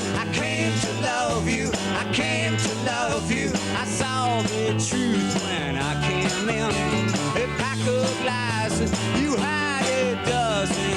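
Rock band playing live: bass notes changing every second or so under drum hits, with a lead melody line that slides and wavers in pitch over the top.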